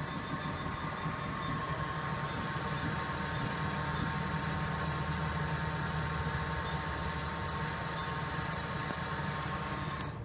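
CNC lathe running with its spindle turning: a steady machine hum with a few held tones.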